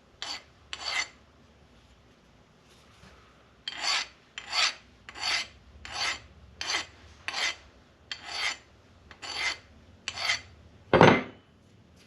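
Fine hand file scraping along the bottom edges of an aluminium block to knock off burrs. There are two strokes, a pause, then a run of about ten even strokes at roughly one and a half a second, and the last near the end is the loudest.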